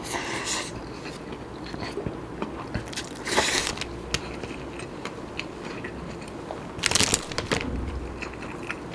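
Mouth sounds of chewing a handful of nasi kandar rice eaten by hand. Three louder chewing bursts come at the start, about three and a half seconds in, and about seven seconds in, with small wet clicks between them.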